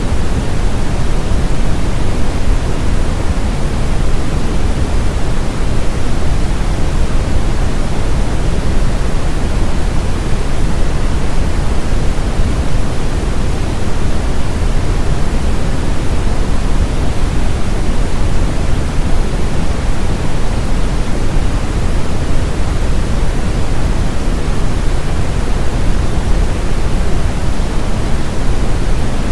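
Steady brown noise: an even, deep rushing hiss with most of its weight in the low end, unchanging throughout, of the kind used to mask tinnitus.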